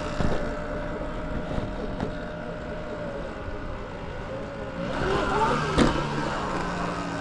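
Motor vehicle running along a street: a steady motor hum under wind and road noise. About five seconds in, a louder vehicle sound swells with shifting pitch, with a sharp click near its peak, then settles into a lower steady hum.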